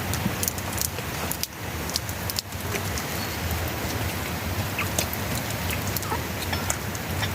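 Steady rain falling, with scattered close drops ticking throughout.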